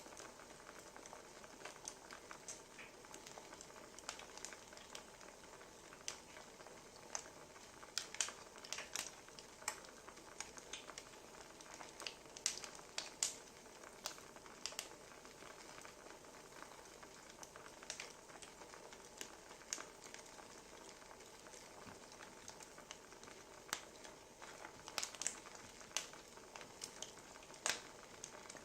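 Wood fire crackling: a soft steady hiss with irregular sharp pops and snaps, some in quick clusters.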